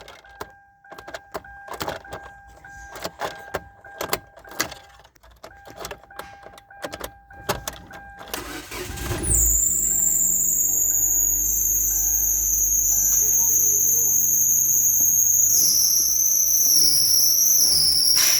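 A chime beeps over and over among clicks and knocks. About nine seconds in, the 2011 Hyundai Elantra Touring's 2.0-litre DOHC four-cylinder engine starts and then runs steadily, with a high whine over it.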